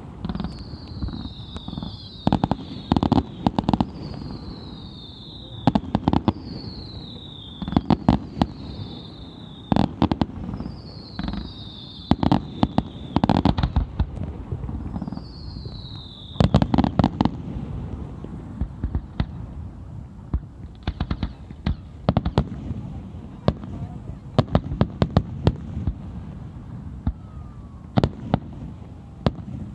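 Fireworks display: repeated sharp bangs and crackling bursts, with high whistles that each fall in pitch over about a second. The whistles come through the first half and stop after about sixteen seconds, while the bangs carry on.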